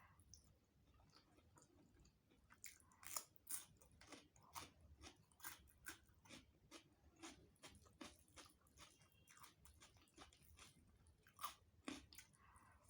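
A person chewing food close to the microphone with crisp crunching. After a quieter first two and a half seconds, a steady run of sharp crunches follows, about two a second.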